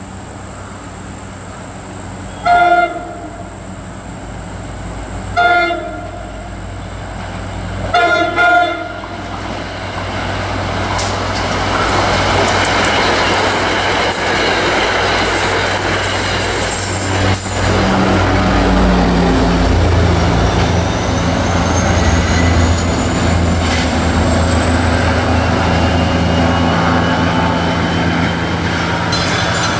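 NJ Transit diesel-hauled commuter train sounding its horn in four short blasts as it approaches, the last two close together. It then passes with a rising, steady rumble and rattle of wheels on rail, and a diesel locomotive's low steady drone joins in during the second half before the sound drops away near the end.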